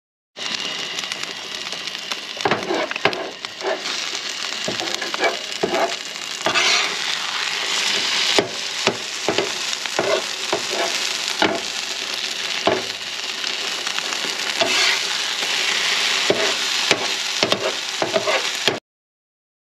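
Chorizo and eggs sizzling on a camp-stove griddle, with a spatula scraping and tapping the griddle many times as the food is stirred. The sound cuts off abruptly near the end.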